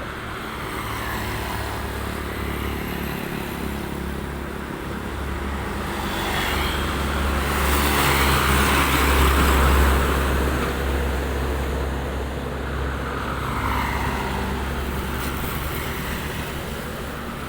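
A motor vehicle passing by on a nearby road, its engine and tyre noise growing louder to a peak about halfway through, then fading away.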